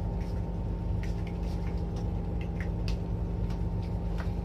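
Steady low drone of a ship's engine and machinery with a constant hum, and scattered light ticks over it.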